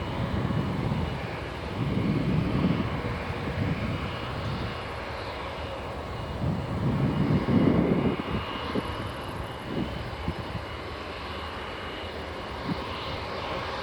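Jet airliner engines at an airport: a low rumble that swells twice and eases, with a faint steady high whine over it.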